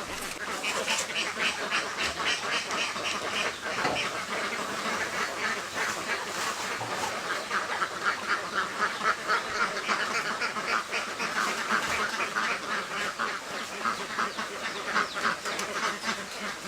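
A large flock of domestic ducks quacking, many short calls overlapping in a constant chatter.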